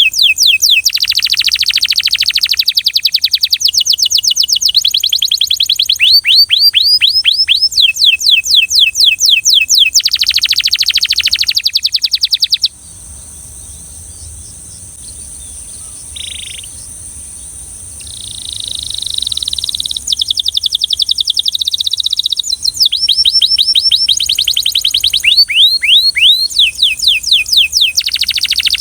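Belgian canary singing in fast trills of quickly repeated sweeping notes. About halfway through it pauses for several seconds, then gives a smoother, lower roll before the rapid trills resume.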